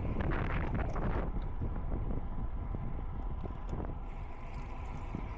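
Wind buffeting a microphone on a moving bicycle: a steady low rumble, with more hiss in the first second or so before it eases.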